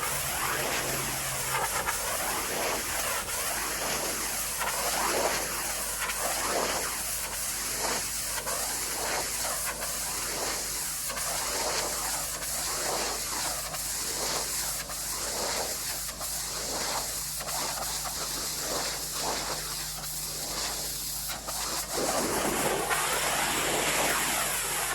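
Pressure washer spraying, a steady hiss of water that swells and fades about once a second as the wand sweeps back and forth, over a low steady hum. Near the end the spray turns louder and more even.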